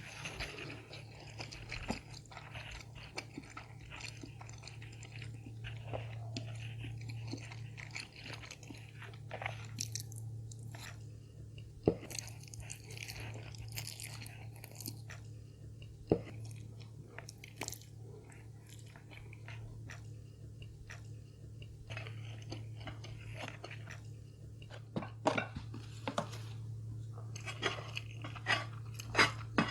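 Close-up chewing and crunching of crispy fried food, with sharp, irregular bites now and then, over a steady low hum.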